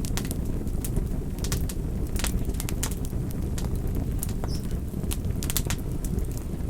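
Campfire burning with a steady low rumble and frequent sharp, irregular crackles and pops of burning wood.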